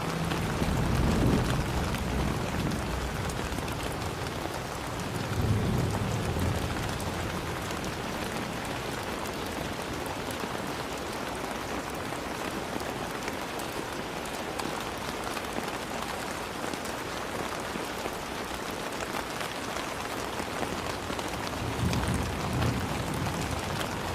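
Steady rain falling, an even hiss of drops on surfaces, with low rumbles of thunder swelling three times: near the start, about five seconds in, and near the end.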